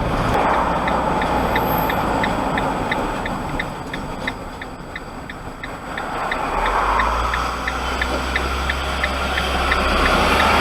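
Turn-signal indicator ticking evenly, about two and a half ticks a second, over the steady engine and road noise of an HGV cab. The engine's low drone grows louder about six and a half seconds in.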